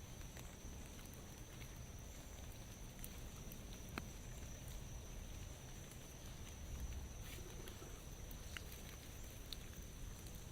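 Light rain falling in a forest, a soft steady patter with scattered sharp drips and ticks of drops. A faint steady high-pitched tone runs underneath.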